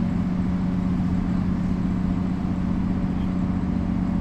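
Mercedes-Benz O405 city bus diesel engine running steadily, heard from inside the bus, with a constant low hum and rumble that holds at one pitch.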